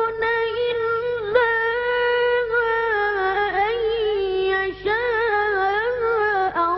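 A child's voice reciting the Quran in melodic tajweed, holding long notes with wavering ornaments, with brief pauses between phrases.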